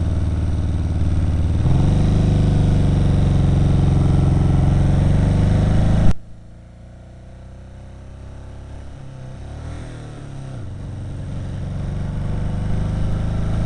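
Kawasaki KZ750 motorcycle engine running under way. Its note steps up about two seconds in and holds steady, then drops off sharply about six seconds in to a much quieter running sound that slowly builds again.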